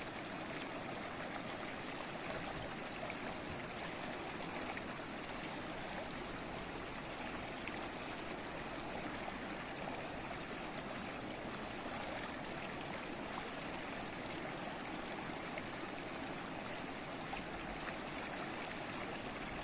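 Babbling stream: water flowing and trickling over stones in a steady, unbroken rush.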